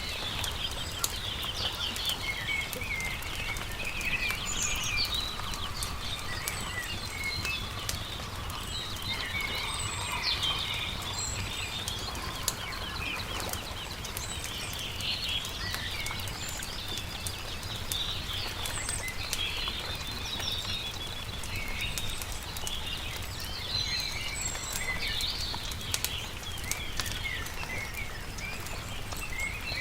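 Many birds chirping and singing continuously, with sharp crackles of a wood campfire scattered throughout, over a steady low rumble.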